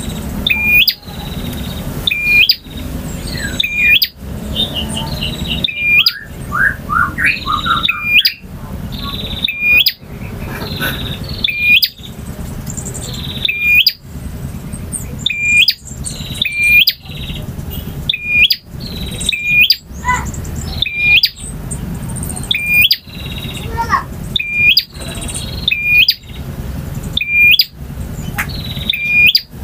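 Male bar-winged prinia (prenjak) singing loudly and insistently: a sharp, high phrase repeated about every second or two, with quicker twittering notes between, over a steady low rumble.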